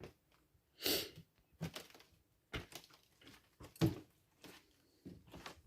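Footsteps on an old floor: a series of irregular knocks and scuffs, roughly one step a second. It is the kind of floor sound that the walker doesn't like the sound of, suggesting a weak or unsound floor.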